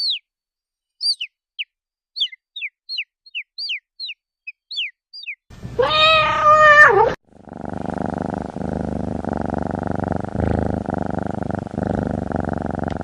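A run of short, high chirps, each falling in pitch. Then a single long cat meow that rises, holds and drops away. It is followed by a steady, pulsing cat purr.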